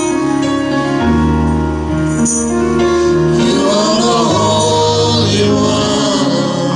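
Gospel music with singing over held bass notes.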